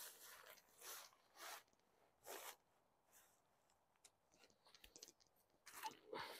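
Tent fabric rustling in a series of short swishes as tent poles are slid through the tent, with a few light clicks about two-thirds of the way in.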